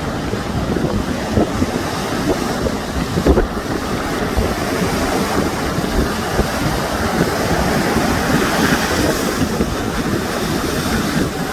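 Sea waves washing on the shore, a steady surf with one wave swelling louder about three-quarters of the way through. Wind buffets the microphone in low rumbles.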